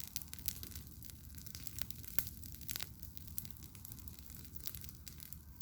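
Wood campfire crackling, with irregular sharp pops and snaps, several a second, over a steady low rumble.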